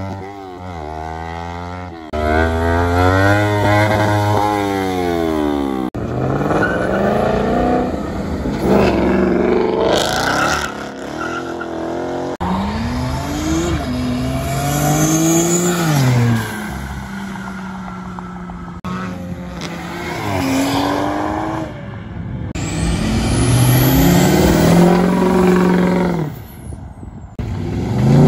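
A series of vehicle engines revving and accelerating away one after another: a sport motorcycle, then several cars. Each engine note rises and falls in pitch, and the sound breaks off suddenly between them.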